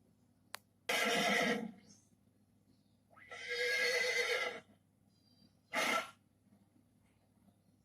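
Horse neighing in three separate calls, the middle one the longest, with a sharp click just before the first.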